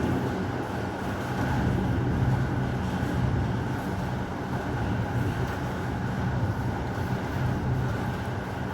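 Steady heavy rain with a low, rolling rumble of thunder underneath, swelling a little about two seconds in.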